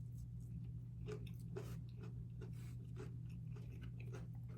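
Close-miked chewing of fried fish: soft, irregular mouth clicks and light crunches about twice a second, over a steady low electrical hum.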